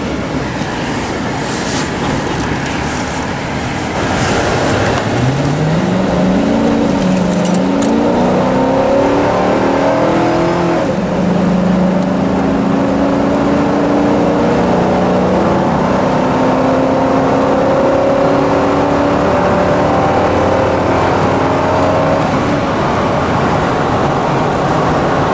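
Pickup truck's engine accelerating from a start while towing a trailer: its pitch climbs and drops back a few times as the transmission shifts up, then settles into a steady cruise, with tyre and road noise underneath.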